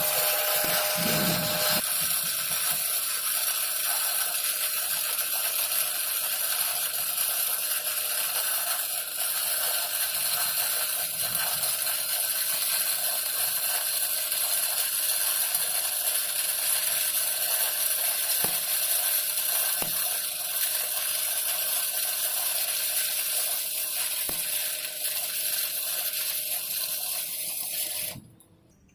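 Stick (SMAW) welding arc crackling steadily as an E6011 electrode lays the root pass on a carbon steel pipe. The arc breaks off abruptly near the end as the pass is finished.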